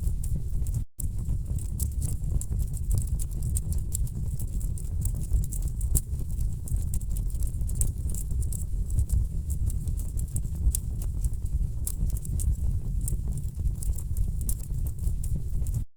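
Wood fire crackling in a fireplace: many sharp pops and snaps of burning logs over a steady low rumble of the flames. The sound drops out for an instant about a second in and again at the end.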